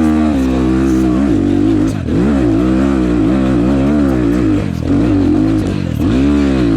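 Enduro motorcycle engine revving hard, its pitch rising and falling over and over as the throttle is worked.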